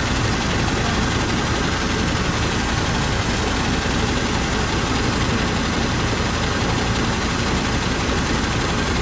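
Rice combine harvester's diesel engine and machinery running steadily at an even pitch.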